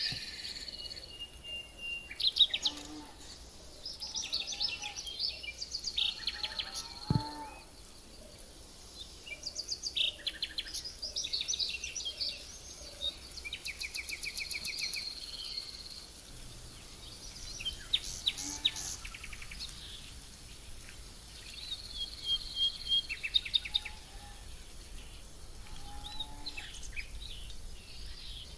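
Several songbirds chirping and singing, with fast trills of repeated notes, over a steady high hum of insects.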